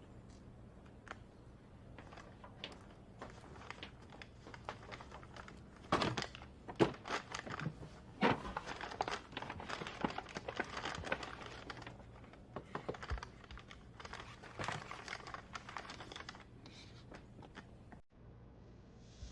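Irregular sharp clicks and crinkling rustles of things being handled, thickest in the middle stretch, over a faint room hum.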